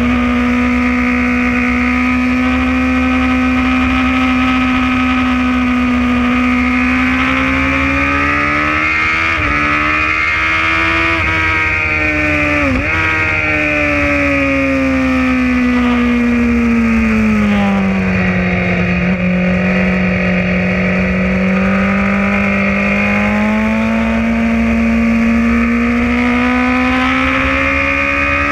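Sport motorcycle engine at speed, heard onboard, its pitch climbing and falling as the rider accelerates and eases off, with a sharp dip about 13 seconds in, over a steady rush of wind noise.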